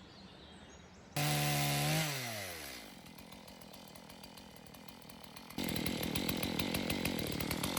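Chainsaw revved up suddenly about a second in, its pitch sliding down as it falls back toward idle. About two seconds before the end it is opened up again and runs fast and steady.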